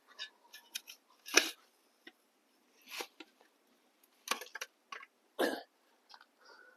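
A shovel scraping and scooping hot coals and dirt over a pork roast buried in a campfire bed, in a few short strokes spread over several seconds.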